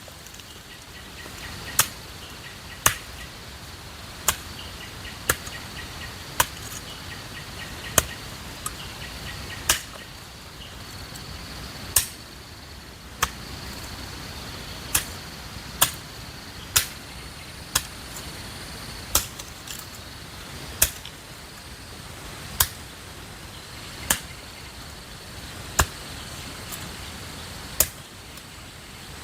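A hand tool striking hard and repeatedly, about twenty sharp chopping blows spaced one to two seconds apart, over insects droning steadily.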